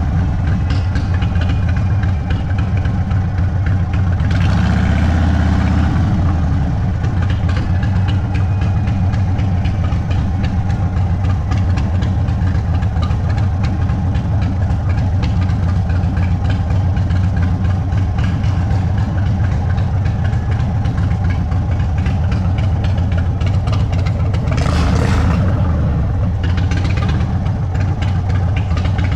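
Indian Sport Chief's Thunderstroke 116 V-twin through an aftermarket Sawicki Speed exhaust, running steadily at low revs with a deep, loud exhaust note.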